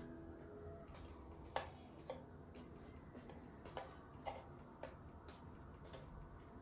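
Faint, light clicks and taps, roughly two a second and uneven in strength, over quiet room noise.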